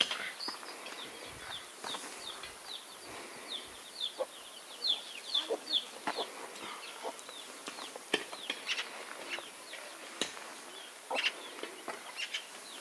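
Birds chirping in many short, high, falling notes, several a second, with a few sharp clicks among them.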